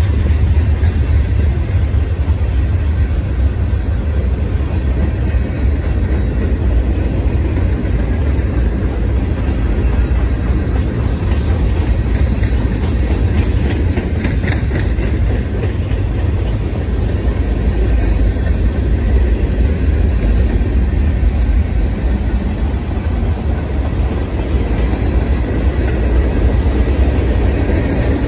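Freight cars of a mixed manifest train rolling past close by: a loud, steady, heavy rumble of steel wheels on rail.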